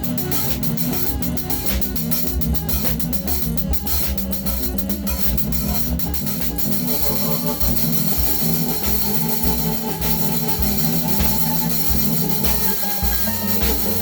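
Acoustic drum kit improvising over a Eurorack modular synthesizer's repeating low pitched pattern. Quick cymbal and stick strikes are dense through the first half and thin out after about six seconds, while the synth line keeps pulsing.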